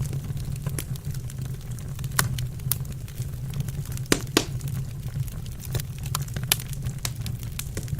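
Burning wood in a fireplace crackling and popping irregularly, with a few louder pops about two and four seconds in, over a steady low rumble.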